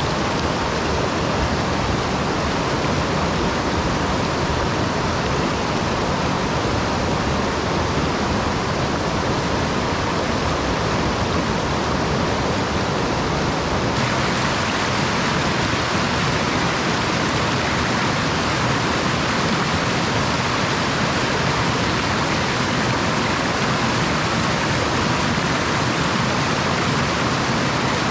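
Mountain stream water rushing steadily, a little brighter in tone from about halfway through.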